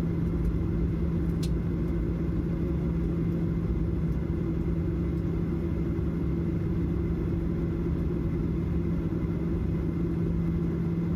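Steady cabin noise inside a Boeing 737-800: an even engine drone and rumble with a constant low hum.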